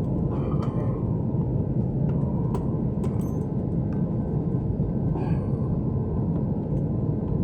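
Steady low rumble inside an airliner cabin, with a few faint clicks and a brief distant voice.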